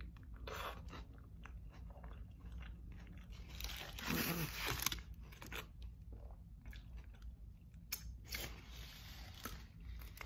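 Close-up eating sounds of a burrito being bitten and chewed: short wet mouth clicks and crackles, with a louder, longer crunching rustle about four seconds in and another about eight seconds in.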